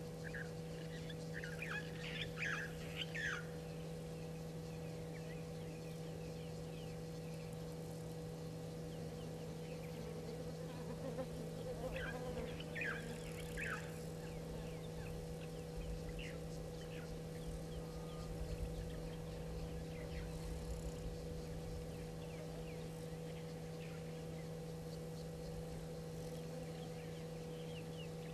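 Wild birds calling in short bursts of quick high chirps, a couple of seconds in and again near the middle, over a steady low electrical hum.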